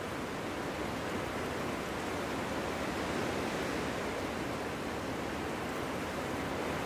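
Steady wind blowing through a forest: a constant rushing noise that swells slightly a few seconds in.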